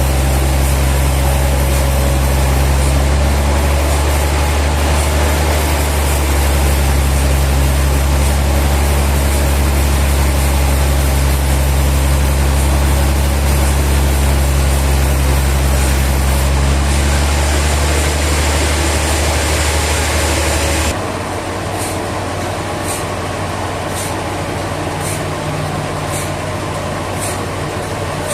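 Sawmill machinery running steadily with a low engine hum. About 21 s in it changes abruptly to a quieter, steady machine noise with a faint tick a little more than once a second.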